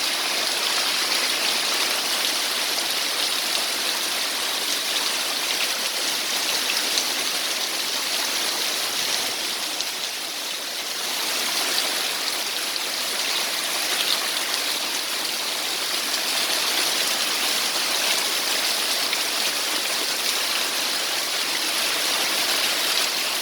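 Heavy rain falling, a steady dense hiss that dips slightly about ten seconds in.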